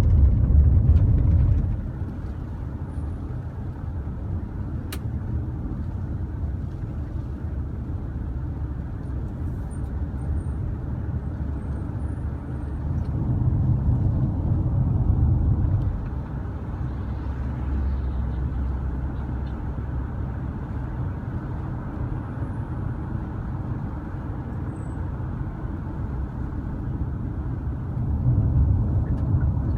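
Low, steady rumble of road traffic that swells louder around the middle and again near the end, as vehicles pass.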